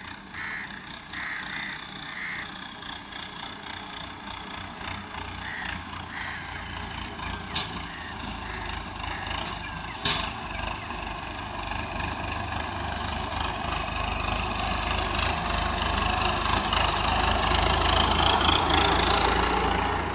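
Massey Ferguson Millat 375 tractor's turbocharged diesel engine running, growing louder over the second half with a rising whine near the end. A single sharp knock about halfway.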